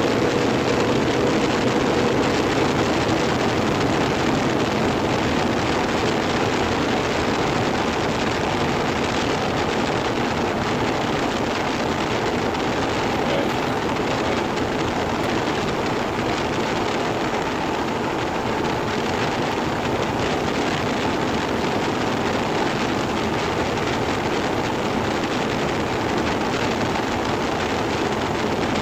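Steady road and wind noise of a motorhome driving at highway speed, heard from inside the cab.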